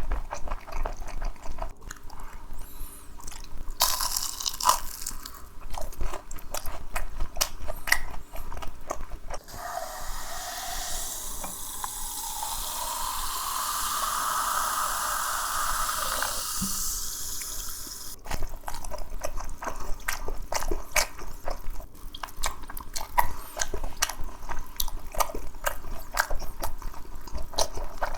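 Close-up eating sounds of grilled chicken being chewed, with small wet mouth clicks. About ten seconds in, a drink is poured into a glass for some eight seconds, its pitch rising as the glass fills, and then the chewing resumes.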